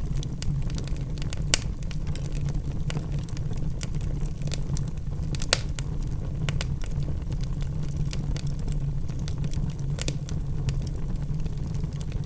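Logs burning in a fireplace, crackling with scattered sharp pops over a steady low roar of the flames. The loudest pops come about a second and a half and five and a half seconds in.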